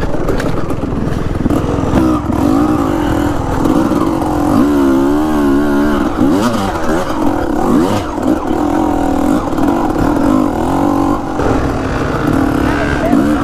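Yamaha YZ250X two-stroke single-cylinder dirt bike engine being ridden hard on trail, its revs rising and falling continuously as the throttle is worked.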